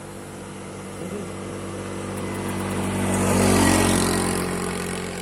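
A motor vehicle driving past, its engine hum and road noise swelling to a peak about three and a half seconds in, then fading.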